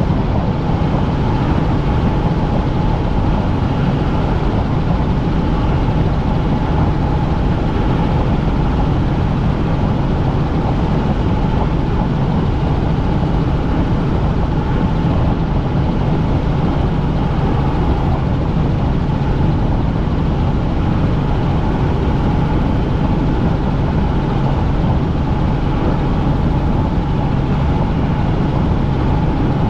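Helicopter in steady flight heard from inside the cabin: a constant engine and rotor drone with a steady whine above it, unchanging throughout.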